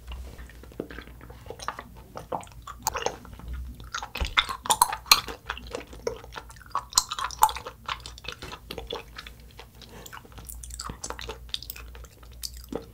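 Close-miked chewing of a gummy jelly candy, with many short, irregular mouth clicks.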